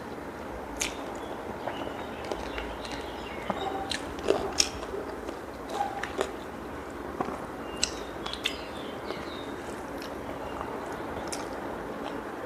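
A person chewing food close to the microphone, with scattered wet smacks and clicks, while fingers mix rice and chicken curry on a plate. Steady low hiss underneath.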